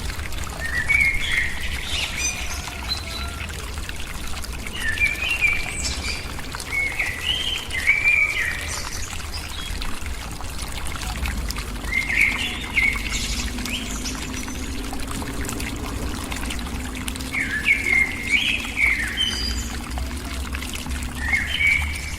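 A bird calls in short warbling chirp phrases, about six of them a few seconds apart, over a steady hiss of pouring, trickling water.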